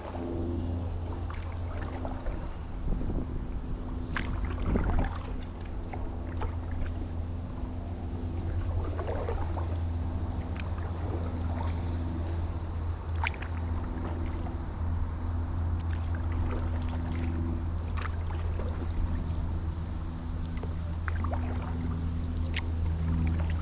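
Stand-up paddleboard paddle dipping and pulling through canal water, splashing and trickling every few seconds, over a steady low hum.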